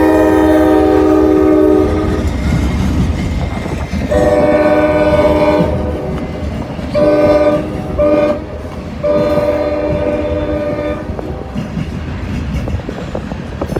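Freight diesel locomotive's multi-chime air horn sounding a horn salute in a series of long and short blasts, the last ending about three seconds before the end, over the low rumble of the passing freight train.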